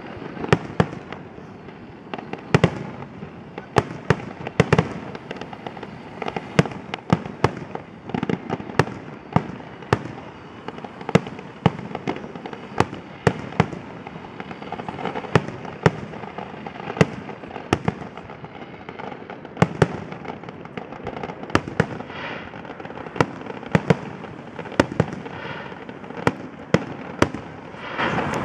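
Fireworks display: a steady run of sharp bangs from bursting aerial shells, several a second at irregular intervals, over continuous crackling, growing denser and louder near the end.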